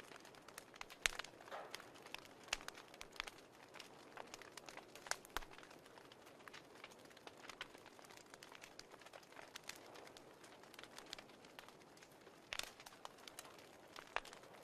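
Fireplace crackling faintly: irregular sharp pops and snaps over a soft hiss.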